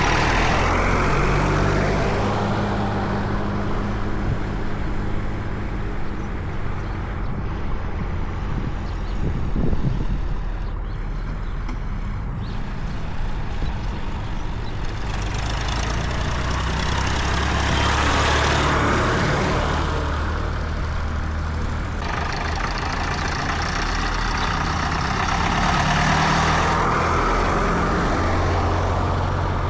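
Tractor engines running as tractors drive past on a road, the sound swelling three times as vehicles come close and go by.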